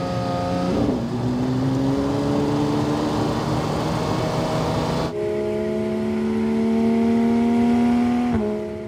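2023 Porsche 911 GT3 RS's naturally aspirated 4.0-litre flat-six accelerating on track. The pitch drops at a gearchange about a second in and then climbs. A second pull starts about five seconds in, rising steadily to another upshift near the end.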